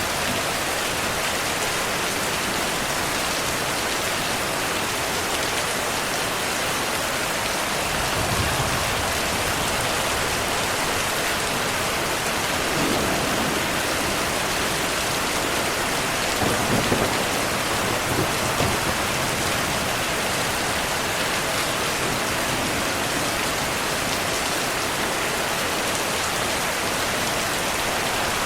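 Heavy rain falling steadily, with a few low rumbles of thunder in the middle.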